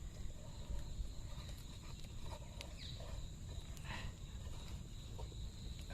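Faint outdoor ambience: a steady high-pitched insect drone, with a few soft clicks and a short faint animal call about four seconds in.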